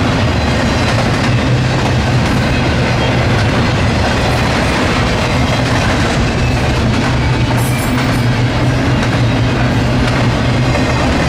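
Norfolk Southern freight train rolling past at close range: a loud, steady, unbroken noise of wheels running on the rails.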